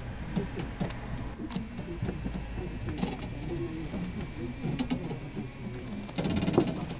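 Inside a stopped train car: scattered small clicks and knocks over a low rumble, with a short, rapid mechanical rattle about six seconds in.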